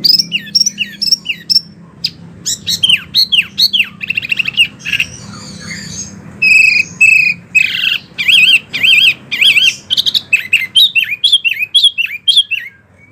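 Wambi songbird singing a fast, continuous run of loud chirps and sharp down-slurred notes. A buzzy rattle comes a few seconds in, and wavering whistled phrases follow near the middle.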